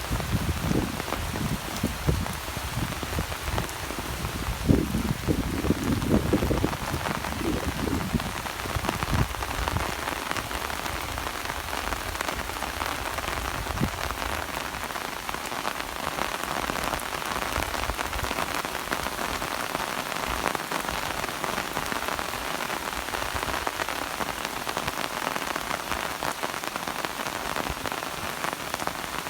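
Rain falling steadily as an even wash of noise, with low thuds mixed in over the first nine seconds or so.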